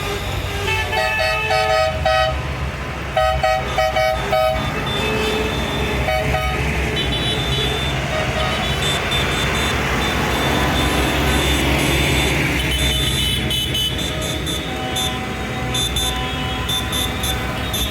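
Vehicle horns tooting in repeated short bursts over the steady low running of tractor engines.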